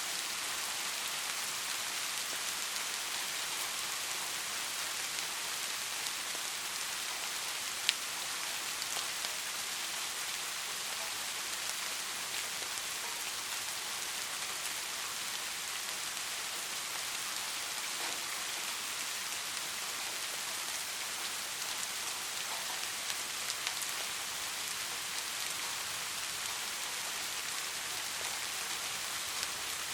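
Steady soft rainfall: an even hiss of rain with scattered raindrop ticks, and one sharper drop about eight seconds in.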